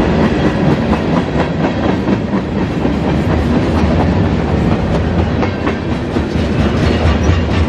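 CSX freight train cars rolling past at speed, a steady loud rumble with the wheels clicking over the rail joints.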